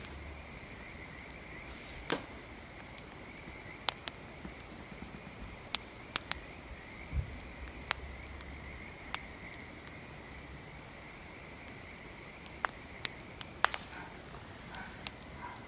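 Wood fire crackling, with sharp, irregular pops and snaps, over a steady high-pitched trill.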